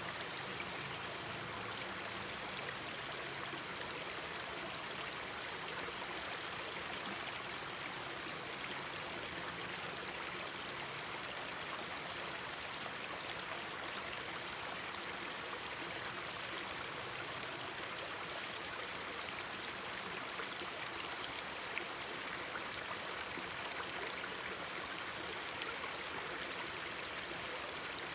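Mountain stream babbling steadily, with a few faint clicks and one slightly louder tick about 22 seconds in.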